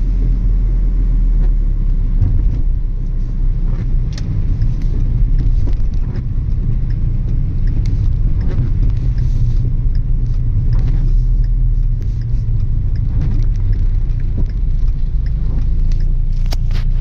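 Car driving on a rain-wet road: a steady low rumble, with scattered sharp taps throughout.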